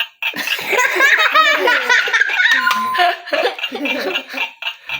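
Several people laughing together, loud and overlapping, over a rapid, even ticking.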